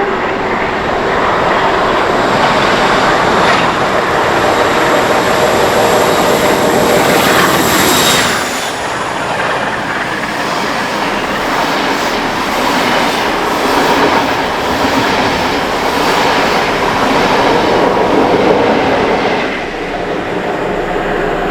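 Class 45 'Peak' diesel locomotive, with its Sulzer twin-bank diesel engine, passing through the station at speed. The engine noise peaks about eight seconds in with a high whine that dips in pitch. After that the coaches roll by with a steady clickety-clack of wheels over rail joints.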